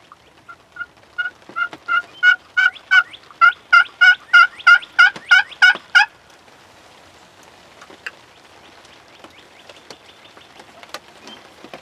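Turkey yelping: a run of about seventeen short, two-toned yelps at roughly three a second, growing steadily louder and stopping about six seconds in. Scattered light taps follow.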